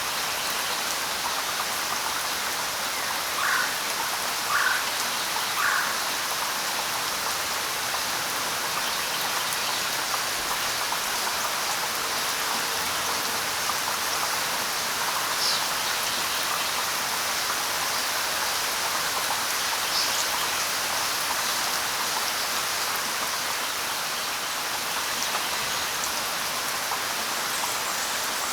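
Steady light rain falling. Three short bird calls come a few seconds in, and two brief high chirps follow later.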